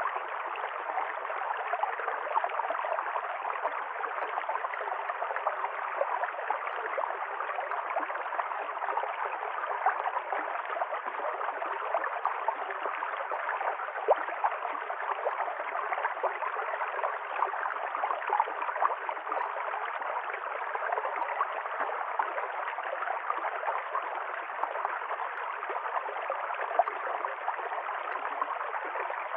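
A river stream running over stones, a steady rush of water with constant small splashes and gurgles.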